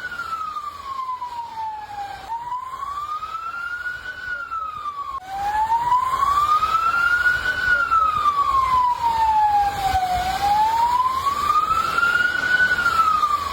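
Emergency siren wailing, its pitch rising and falling slowly and evenly. The pitch jumps abruptly twice in the first five seconds, and the siren is louder from then on.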